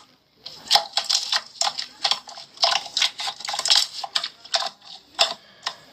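A quick, irregular run of sharp clicks and taps, several a second, after a brief silence at the start.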